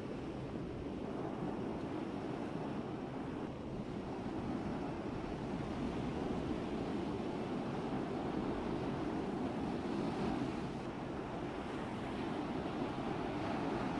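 Steady, even rush of water and wind around a cargo vessel under way, with no single sharp event.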